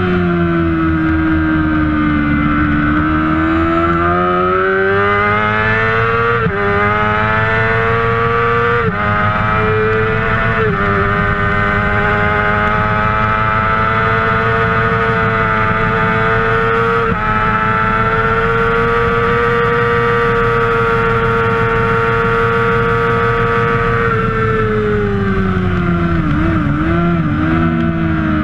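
A Kawasaki ZX-6R 600cc supersport bike's inline-four engine at racing speed. It pulls up through the revs with quick upshifts, a brief break in pitch each time, then holds high revs for several seconds. Near the end the revs fall through a run of quick downshifts under braking.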